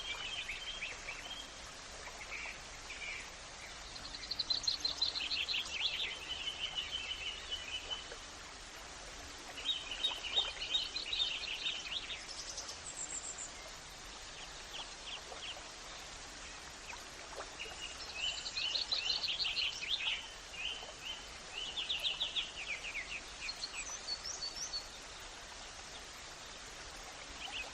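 Songbirds singing short, rapid trilled phrases every few seconds, some lasting a couple of seconds, over a steady low background hiss.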